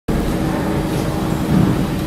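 Steady hum and rumble inside a Siemens C651 MRT train standing at the station platform, with a faint constant tone through it.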